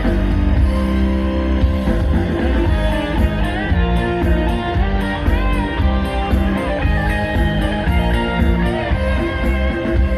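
Live Thai luk thung band music with no vocals: a guitar-led melodic passage over steady bass and drums, the lead line bending in pitch near the middle.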